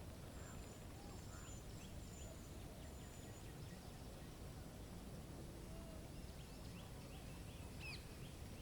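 Small songbirds calling faintly: thin high whistled notes and quick runs of short chips, with one sharper call near the end, over a steady low rumble.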